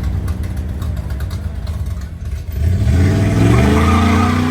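A car engine running with a low rumble, then revving up hard about two and a half seconds in and holding at high revs.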